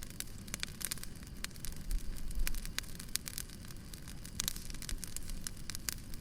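Firewood burning, with irregular sharp crackles and pops over a low rumble.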